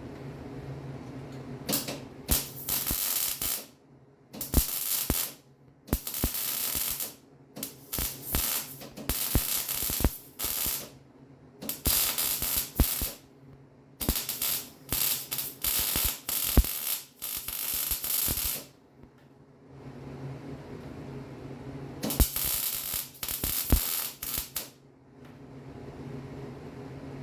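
Welding on the Willys Jeep's frame: about ten short bursts of arc crackle, each from half a second to two seconds long, with pauses between them and a steady low hum underneath.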